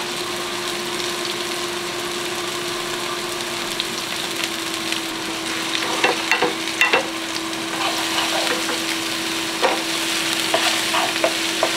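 Diced onions and garlic sizzling in avocado oil in two nonstick frying pans on a portable electric double burner, over a steady faint hum. In the second half, wooden spatulas stir and scrape the pans with short clatters.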